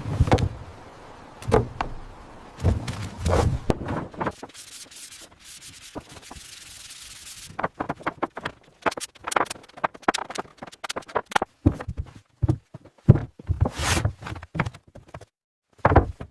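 Woodworking sounds: rough rubbing and sanding strokes on wood, then a steady hiss for a few seconds. From about halfway, a quick irregular run of sharp clicks and knocks.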